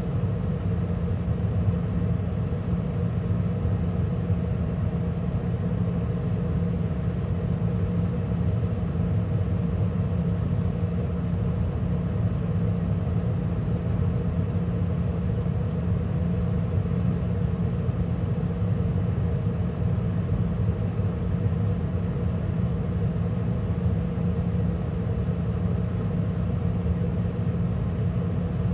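2013 Carrier gas furnace running steadily mid heating cycle, with the burners lit and the inducer motor and circulation blower running: a steady hum.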